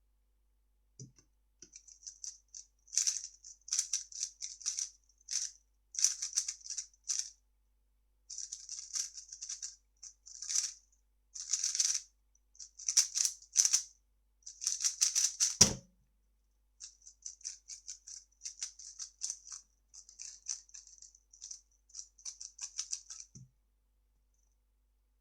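Plastic 3x3 speedcube being turned fast: bursts of rapid clicking layer turns separated by short pauses. There are three brief low knocks as the cube or hands hit the table: about a second in, about two-thirds of the way through, and near the end.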